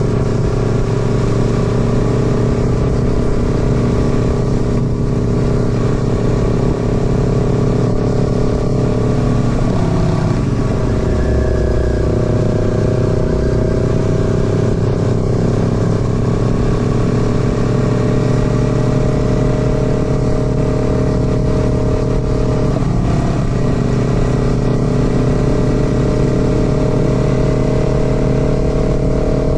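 Royal Enfield Classic 650's parallel-twin engine running steadily under way, with two upshifts: the engine note drops about ten seconds in and again some thirteen seconds later, then slowly rises as the bike pulls in the higher gear.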